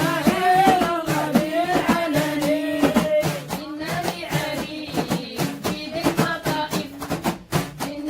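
Devotional dhikr chanting: sung vocals holding and bending melodic lines, with a steady run of percussion strokes beneath.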